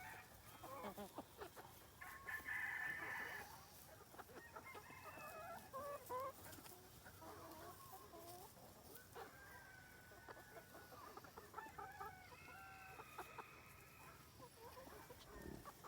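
Free-range chickens clucking and calling faintly while foraging, with a rooster crowing once about two seconds in.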